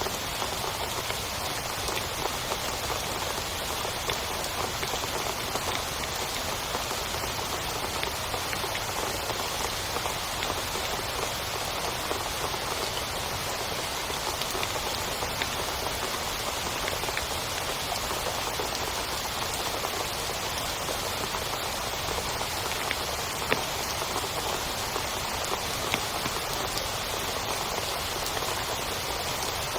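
Heavy, steady rain beating on a tent, a dense hiss of countless drop impacts with a couple of louder single drops late on.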